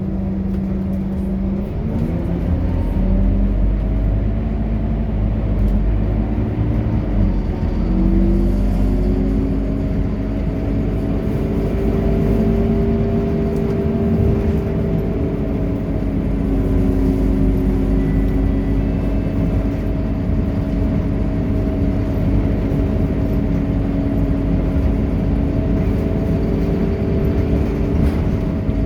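Scania K230UB city bus pulling away, its engine note climbing twice through gear changes in the first eight seconds, then cruising with a steady engine drone.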